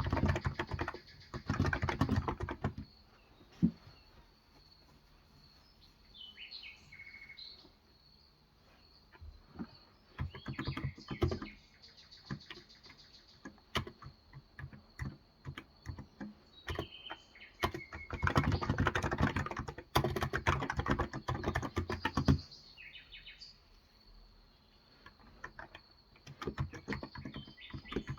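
Typing on a Cox Endeavor electro-capacitive tenkeyless keyboard with 35 g switches: fast runs of keystrokes broken by pauses with only a few scattered key presses. Birds chirp now and then during the pauses.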